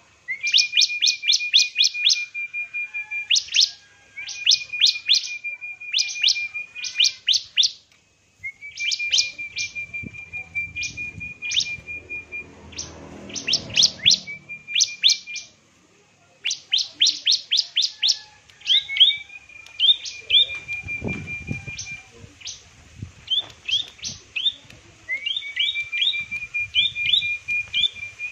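A bird calling in repeated phrases: a quick run of high chirps, then a steady, rapidly pulsed note, over and over with short pauses between phrases.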